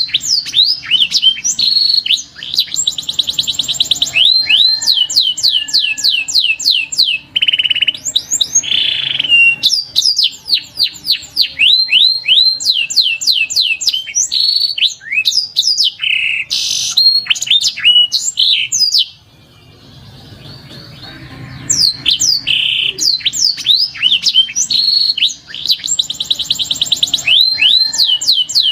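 Domestic canary singing: rapid trills of repeated notes and quick downward-sweeping whistles, with a brief pause about two-thirds of the way through before the song resumes.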